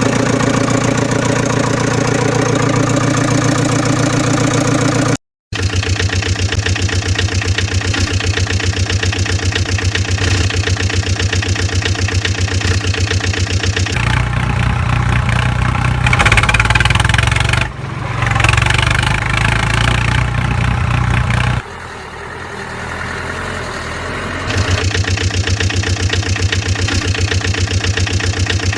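Engine idling with an even, rapid pulse, heard in several spliced stretches: it drops out completely for a moment about five seconds in, and gets louder and busier between about 14 and 22 seconds before a quieter stretch and a return to the steady idle.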